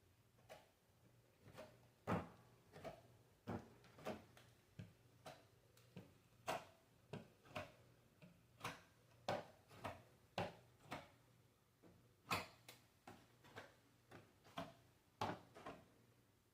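A series of light, irregular knocks and clicks, roughly one or two a second, over a faint steady hum.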